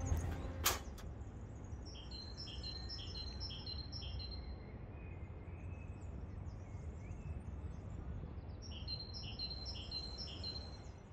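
A songbird singing a quick run of repeated high, short notes, about six repeats about two seconds in and again near the end, over a steady low rumble of wind on the microphone. A single sharp click comes just under a second in.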